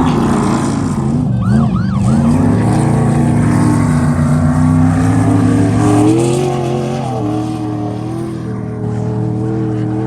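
Off-road race car engine running loud and revving as it drives along the course, its pitch dipping about a second in, then rising and shifting up and down.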